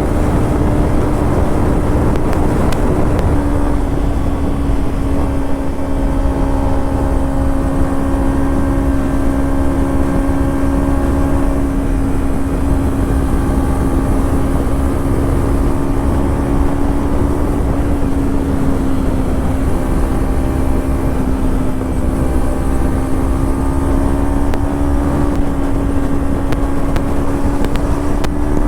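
Kawasaki Ninja 300's parallel-twin engine through a Yoshimura slip-on exhaust, cruising at a steady, nearly constant rpm. The pitch dips slightly a few seconds in and rises again near the end as the throttle is opened.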